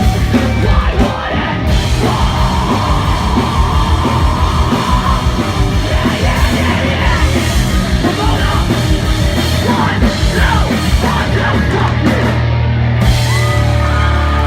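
Loud live post-hardcore band playing: distorted guitars and pounding drums with shouted vocals. Near the end the drums drop out and a held guitar chord rings on.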